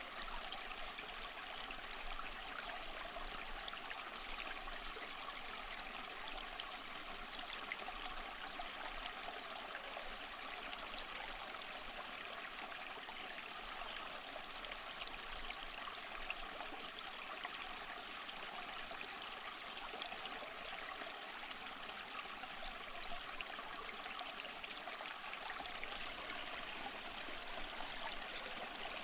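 Steady rushing and splashing of falling water from a waterfall, an even, unchanging hiss of flowing water.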